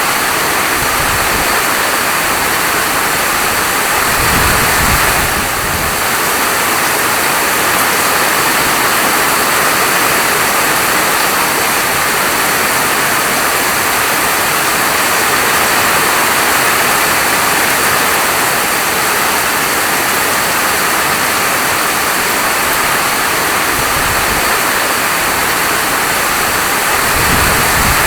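Steady heavy rainfall as an even hiss, with a brief low swell about four seconds in and again near the end.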